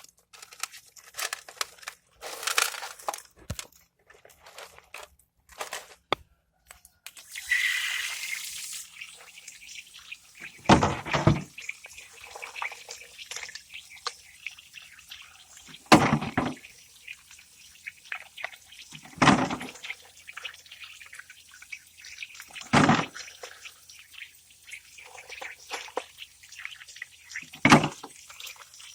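Water splashing and dripping while a refrigerator converted into a fish-tank filter is cleaned out, with a few louder splashes every three to five seconds.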